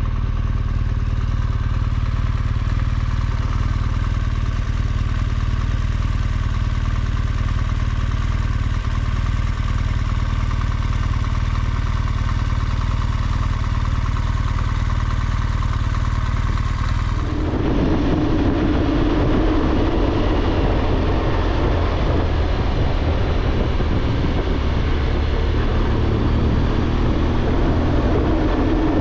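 BMW R1200GSA's flat-twin engine running steadily under way, mixed with wind and road noise. About 17 seconds in, the sound changes abruptly to a rougher, noisier rush.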